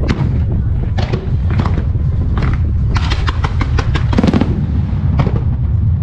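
Aerial firework shells bursting in quick succession during a starmine barrage: sharp cracks over a continuous low rumble, with a rapid cluster of bangs about three seconds in.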